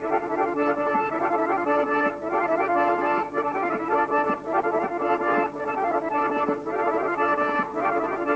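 Accordion playing a rhythmic Caucasian folk dance tune.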